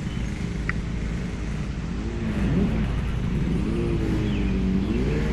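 Motorcycle engine running under way, its pitch rising and falling a few times from about two seconds in as the throttle is rolled on and off, over a steady low rumble.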